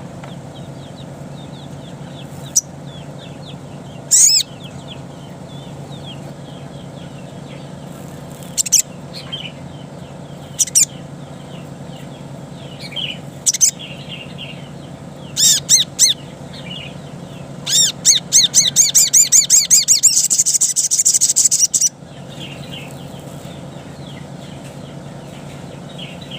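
Little spiderhunter (sogok ontong) calling: sharp, loud single high notes and short pairs every couple of seconds, then a fast run of repeated notes lasting about four seconds that cuts off suddenly. Fainter chirps of other birds and a steady low hum lie underneath.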